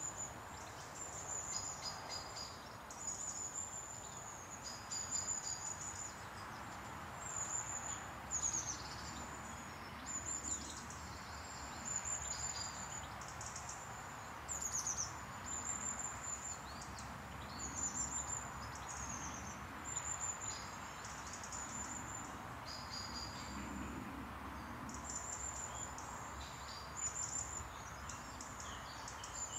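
Outdoor birdsong: short, very high, thin song phrases repeated every second or two, over a steady haze of background noise.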